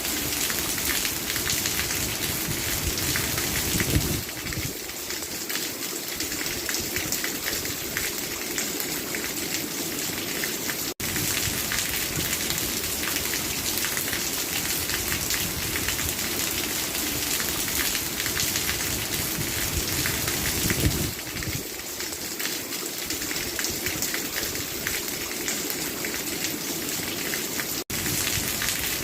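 Steady rain falling, a dense patter of drops, with a split-second gap twice.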